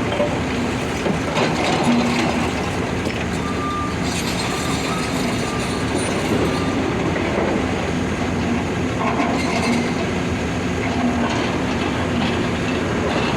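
Heavy machinery at work: the diesel engines of a hydraulic excavator and a tipper truck running steadily, with scattered knocks and clatter.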